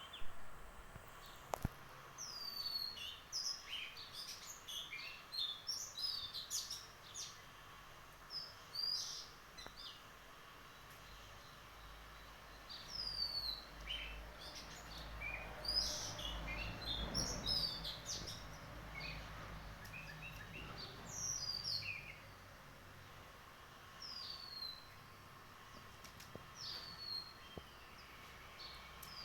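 Several wild birds chirping and calling, with many short chirps and a repeated short whistle that falls in pitch. A low rumble swells and fades about halfway through.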